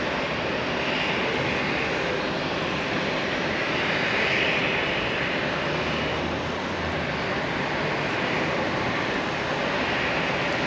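Steady rushing city background noise, like distant traffic, swelling gently and easing off again, with a faint low hum near the middle.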